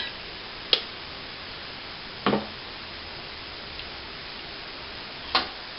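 Three separate sharp clicks a second or more apart, about a second, two seconds and five seconds in: small plastic power switches on a toy quadcopter and its radio transmitter being flicked while pairing them.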